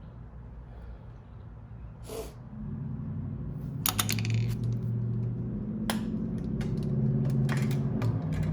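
Sharp metallic clicks and clinks of hand tools and brake hardware being handled, clustered from about four seconds in. Under them, a steady low mechanical hum comes in about two and a half seconds in.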